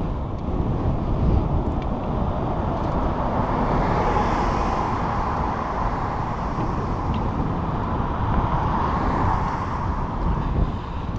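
Wind buffeting the microphone during a bicycle ride, a steady low rumble with a rushing hiss that swells twice, mixed with the bike's rolling noise on the trail.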